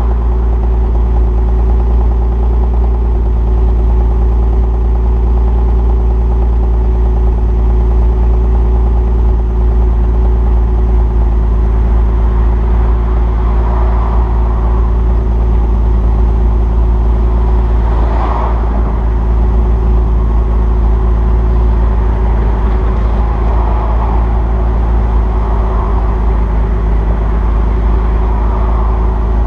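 2002 Nissan Maxima's 3.5-litre VQ35DE V6 idling steadily after a cold start, through an exhaust with equal-length headers, the stock catalytic converter and the resonator removed.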